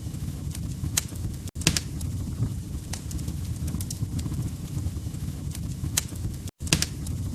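Wood fire crackling: a steady low rumble of burning logs with scattered sharp pops and snaps. The sound cuts out for an instant twice, about a second and a half in and again near the end.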